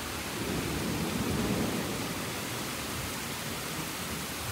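Heavy driving rain pouring down in a thunderstorm: a steady hiss that swells a little about a second in.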